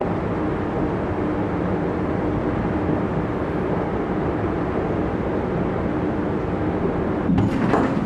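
Steady running rumble with a faint hum, heard from inside a moving train carriage. A few sharp clicks and a brief rise in level come near the end.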